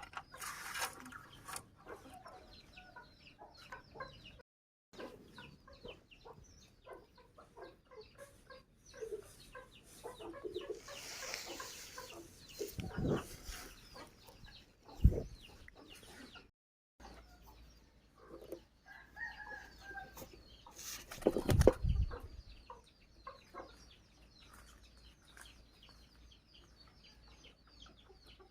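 Baby birds peeping and cheeping with many short, high calls, broken by a few louder knocks and handling noises.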